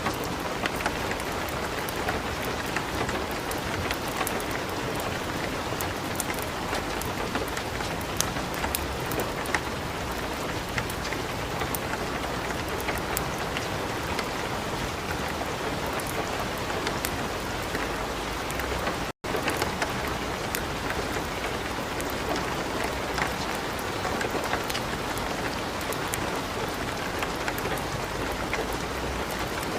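Steady light rain mixed with a wood fire in a fireplace, giving many small sharp crackles and pops over the even hiss of the rain. The sound cuts out for a split second about two-thirds of the way through.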